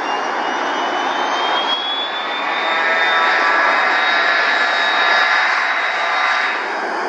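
Jet airliner's turbofan engines running under power, a high whine that climbs for about two seconds and then holds, with a buzzing layer of tones swelling in the middle before easing off near the end.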